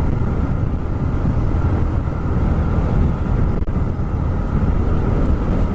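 TVS Raider 125's single-cylinder engine running steadily while the bike is ridden, mixed with wind rumbling over the helmet-mounted microphone.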